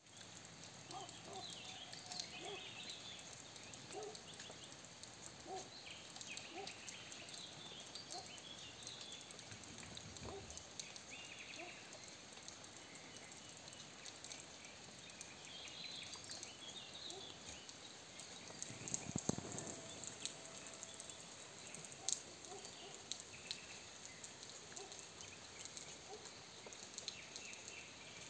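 Soft steady rain with fine drop ticks, and small birds chirping and twittering throughout, with lower repeated calls underneath. A louder animal call stands out about two-thirds of the way through.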